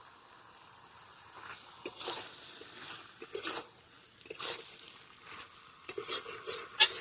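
A spatula scraping and knocking against a cooking pan as vegetables and broken-up fish head are stir-fried, in irregular strokes with the sharpest knock near the end.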